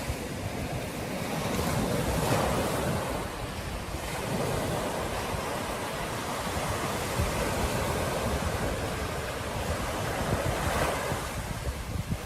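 Ocean surf washing ashore in slow swells, with wind buffeting the microphone.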